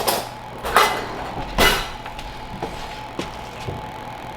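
A spoon scooping ricotta cheese from its tub into a bowl: three scraping scoops in the first couple of seconds, then a few light taps of the spoon.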